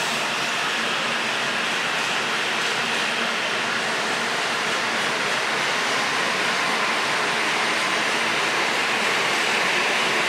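Steady rushing noise of a Tokaido Shinkansen train, growing slightly louder near the end.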